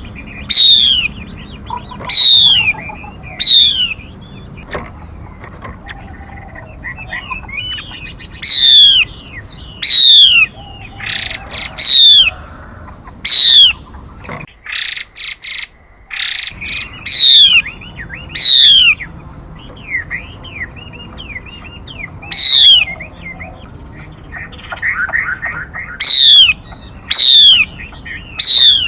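Female 'mi' songbird calling: loud, sharp whistled notes that sweep steeply downward, repeated every second or few seconds and often in quick pairs, with softer chattering notes in between. It is a recorded lure call of the kind played to draw in and train birds.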